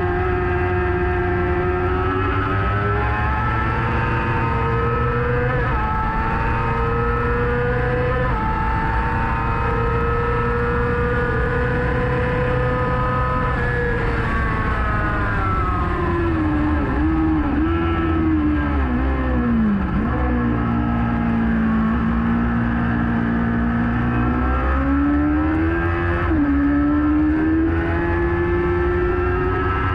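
Kawasaki ZX-6R inline-four engine at racing revs, heard onboard: the pitch climbs in steps through quick upshifts, falls away sharply about halfway through with a few short blips as it changes down, then pulls up through the revs again near the end. Wind and road noise run underneath.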